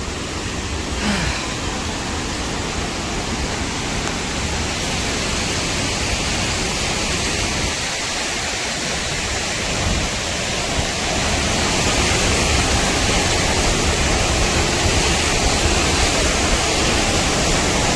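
Steady, loud rush of a large waterfall, Dudhsagar Falls, as an even noise with no distinct events, growing a little louder about eleven seconds in.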